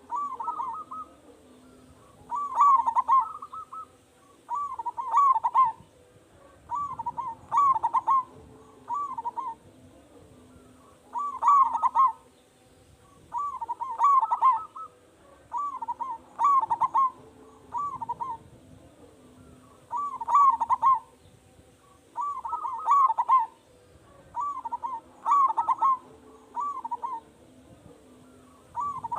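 Zebra dove (perkutut) in full song, cooing phrase after phrase: each phrase a quick run of several rolling coos lasting about a second, a new one every two seconds or so.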